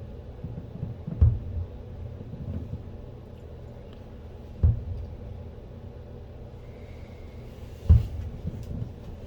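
Fireworks shells bursting: three deep booms, about a second in, near the middle and near the end, each followed by a short rumble.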